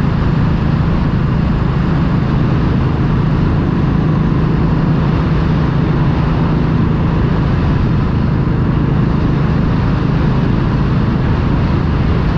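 Motorcycle cruising at a steady speed: an even engine hum under a steady rush of wind and road noise, with no change in pace.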